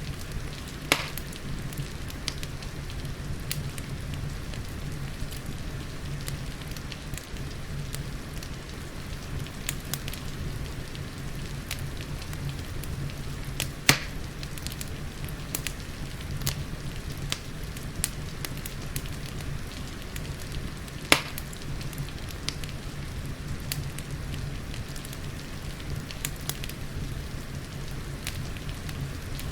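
Wood fire crackling, with many small snaps and three louder pops about a second in, about halfway through and about two-thirds of the way through, over a steady hiss of falling rain.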